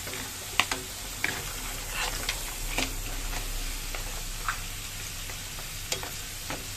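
Mud crabs frying with a steady sizzle in a wok as they are stirred with a wooden spatula and ladle. Short sharp clacks and scrapes come every second or so as shells and utensils knock against the pan.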